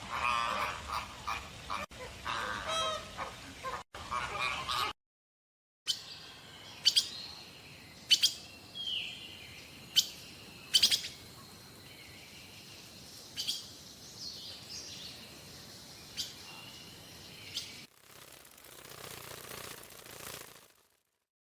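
Birds calling: a dense run of pitched calls for about five seconds, then after a short break, sharp separate chirps about once a second over a faint steady high whistle.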